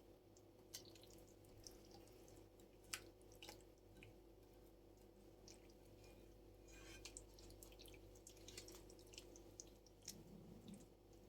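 Near silence: quiet room tone with a faint low hum and scattered soft clicks and taps.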